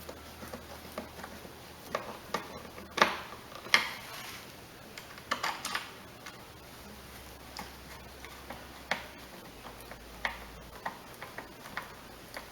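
Irregular clicks and light knocks of hand tools as screws on the mower's engine cover are tightened, with two louder knocks about three seconds and nearly four seconds in and a quick cluster of clicks near the middle.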